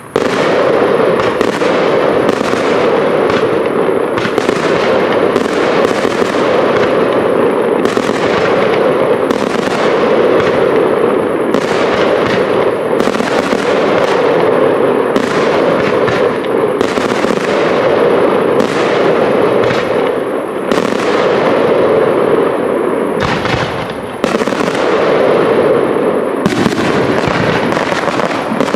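Aerial fireworks display: a dense, continuous barrage of shell bursts and crackle, many bangs overlapping one another, easing off briefly about three quarters of the way through before picking up again.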